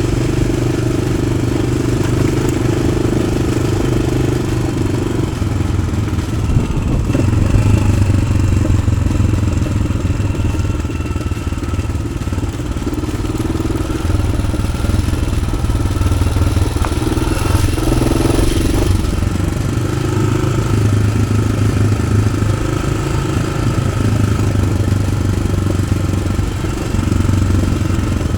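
Yamaha XT600's single-cylinder four-stroke engine with an Arrow aftermarket exhaust running under way, its note rising and falling with the throttle.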